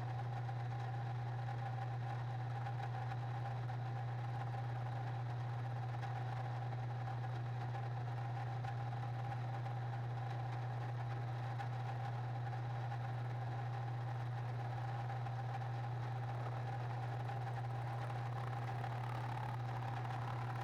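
A shop machine tool's motor running steadily: a constant low hum with a fainter, higher steady tone above it, unchanging throughout.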